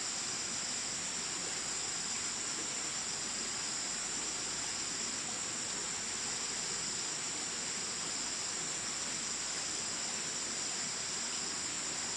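Steady chorus of insects, a continuous high-pitched shrill that holds level without a break.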